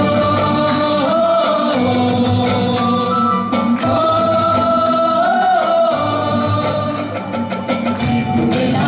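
Live folk song: singing in long held, slightly wavering notes over instrumental accompaniment with percussion.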